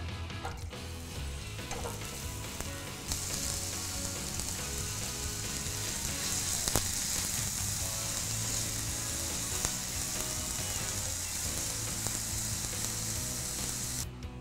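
Sliced lotus root sizzling as it is stir-fried in hot sesame oil in a frying pan, with the slices turned by chopsticks; the sizzle starts about three seconds in and goes on steadily.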